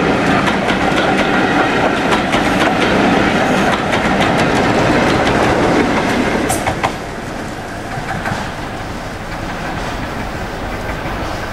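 Passenger coaches of a train rolling past, their wheels clattering over the rail joints, with a brief high squeak about six and a half seconds in. Just after that the sound drops away as the last coach passes and the train fades off down the line.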